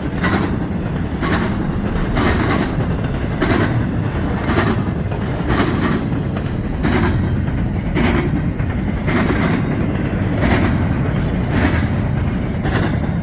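CSX freight train passing at speed: a steady rolling rumble with the wheels clattering over the rail joints in an even beat, about once a second.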